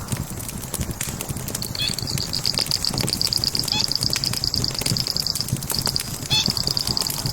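Log fire crackling, with scattered sharp pops over a low rumble. From about one and a half seconds in, a high, rapid trill joins it, breaking off briefly twice and resuming.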